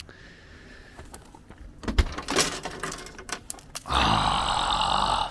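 A run of clicks and knocks as the driver's door window of a 1974 VW 1303S Beetle is wound up with its glass out of its channel, then, about four seconds in, a loud sustained crackling rush as the window glass shatters under the strain.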